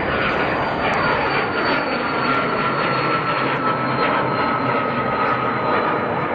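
Cessna 525A CitationJet CJ2 business jet's twin Williams FJ44 turbofans on its takeoff run, a loud, steady jet noise with a high whine that slowly falls in pitch.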